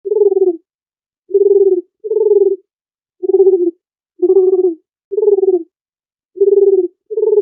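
A dove cooing: a run of short, low, purring coos, about one a second, with silence in between.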